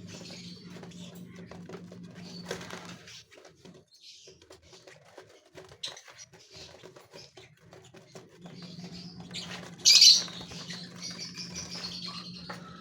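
Gouldian finches in an aviary chirping and fluttering, with scattered short high calls, a short loud burst about ten seconds in, then a run of chirps. A low steady hum runs underneath, dropping out about three seconds in and returning near eight and a half seconds.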